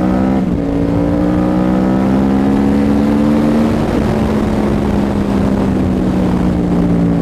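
2011 Yamaha R1's crossplane inline-four running through a Toce full exhaust while being ridden. Its note climbs, drops sharply at a gear change about half a second in, climbs again, drops once more about four seconds in, then holds steady.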